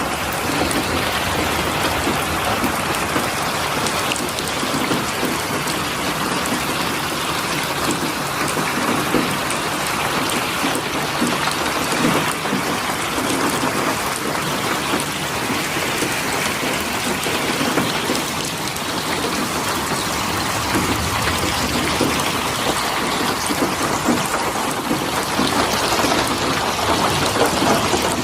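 Steady heavy rain falling, an even hiss with dense drops pattering on a surface.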